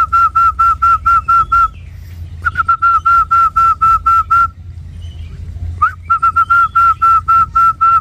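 A bird calling: a rapid string of clear whistled notes on one steady pitch, about six a second, in three runs of about two seconds each with short pauses between them.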